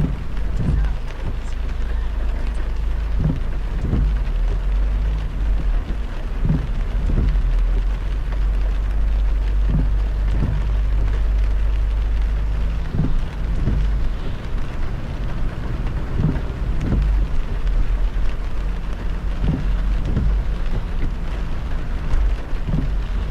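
Heavy rain on a moving car, over a steady low road rumble, with dull low thumps every second or so.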